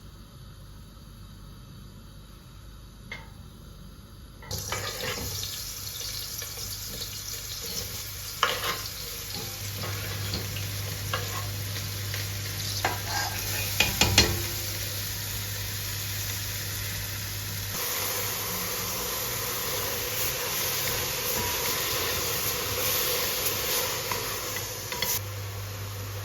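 Food sizzling in a hot pan, starting suddenly about four and a half seconds in, with clinks and knocks of a utensil stirring it.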